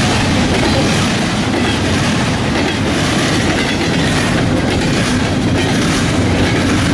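Freight train rolling steadily past close by, its wheels clacking over the rail joints, with a faint squeal of wheels on rail.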